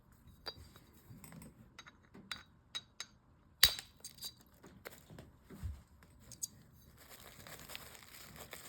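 Packing material being torn and crinkled while a hard slab is unwrapped, with scattered light taps and one sharp knock a little under four seconds in, then steady rustling near the end.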